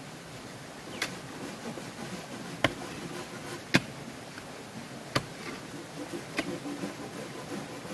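Sharp knocks on bamboo, five blows spaced about a second or so apart, of tool strikes during construction.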